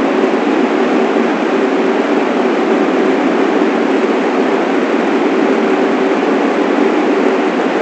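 New York City subway train sounding steadily: an even rumble and rush with a faint steady hum, and no sudden knocks or changes.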